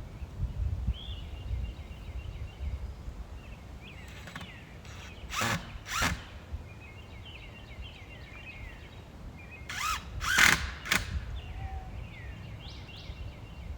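Birds singing repeated chirps and sweeping calls over a low rumble, broken by short, loud rasping noises: two about five to six seconds in and three about ten to eleven seconds in, the loudest near the end of that second group.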